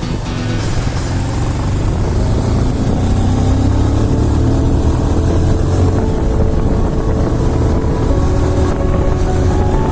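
Bajaj Pulsar motorcycle's single-cylinder engine running steadily while riding, its pitch rising over the first few seconds as the bike picks up speed.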